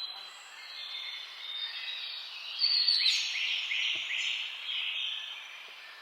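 Several birds singing together in a mix of high whistles and chirps. About halfway through, a run of four quick rising notes stands out.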